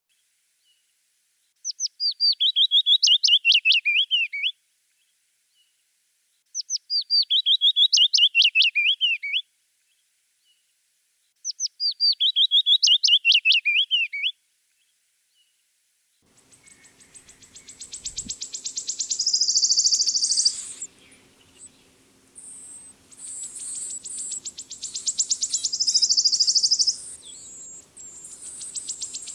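Willow warbler singing three times, each a soft, sweet phrase of about three seconds that runs down the scale. Then, from about halfway, a wood warbler gives its song, a rapid, accelerating, very high trill, repeated.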